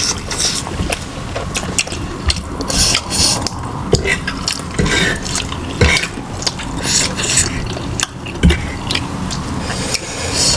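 Close-miked chewing and mouth sounds of someone eating, in irregular short bursts, with a few soft knocks.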